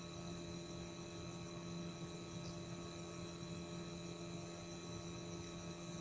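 Steady electrical-type hum with a constant background hiss, unchanging throughout.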